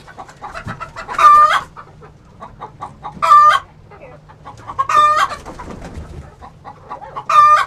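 Poultry calling loudly four times, about every two seconds, each call short and held on one pitch, with softer clucking between.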